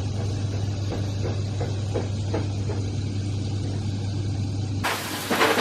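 A steady low hum with a faint regular beat, then an abrupt cut near the end to steak sizzling loudly in a frying pan.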